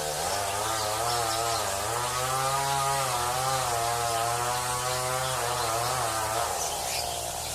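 A small engine running, its pitch rising and falling gently, fading out about six and a half seconds in.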